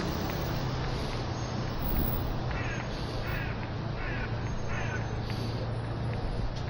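A crow cawing four times in a row, the calls evenly spaced just under a second apart, over a steady low hum of street background.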